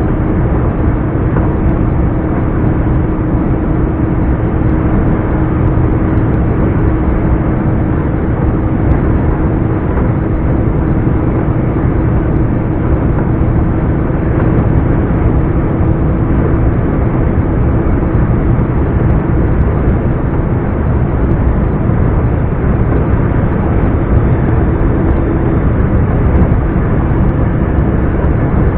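Scania R420 truck's 12-litre inline-six diesel running steadily while driving, a constant low drone with one steady tone over it and no change in revs.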